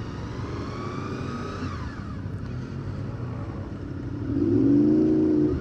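Motorcycle engines running, with the revs rising and falling in the first couple of seconds. Near the end one bike is revved up louder, its pitch climbing.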